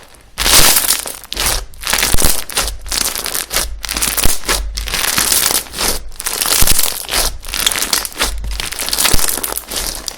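Slime being squeezed, pressed and stretched by hand: a run of irregular noisy presses, each about a second long, with a few sharp pops in between.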